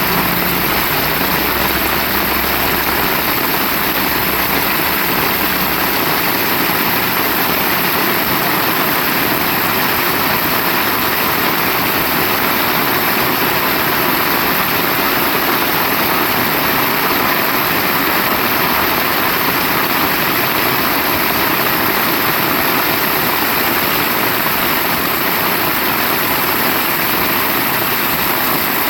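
Heavy rain pouring steadily, a dense even hiss. A low rumble underneath fades out over the first few seconds.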